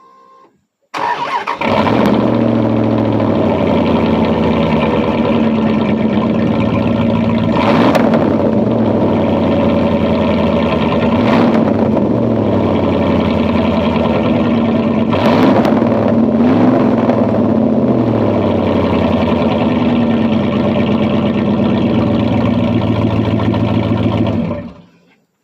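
Second-generation Dodge Ram's 5.9 Magnum gasoline V8 running loud through a straight pipe with the muffler cut off: a deep idle with a few brief revs. It comes in about a second in and cuts off near the end.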